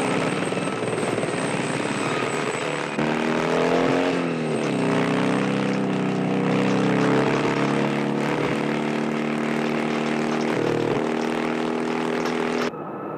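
Film sound of a helicopter chase: a helicopter's rotor and engine mixed with a vehicle engine. The engine pitch rises and falls about four seconds in, and the sound changes abruptly near the end at a cut.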